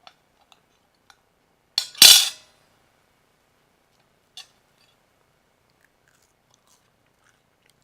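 One loud, crisp crunch of a bite into a hemp-and-flax waffle about two seconds in, with a few faint clicks before and after.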